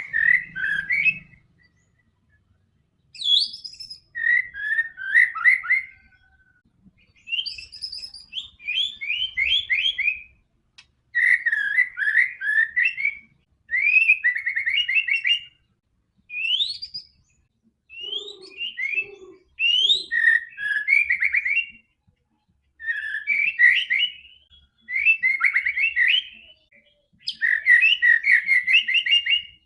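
White-rumped shama (murai batu) singing vigorously: repeated phrases of rapid whistled notes and trills, each a second or two long, with short pauses between. A few lower notes come in about eighteen seconds in.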